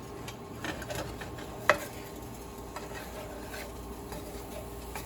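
Chicken cooking in a pan with a steady low sizzle in the water it has released, with light clicks and scrapes of a utensil against the pan and one sharp knock a little under two seconds in.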